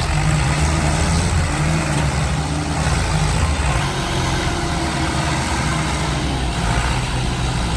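Heavy vehicle engine running steadily under load, a low throbbing drone with mechanical noise above it.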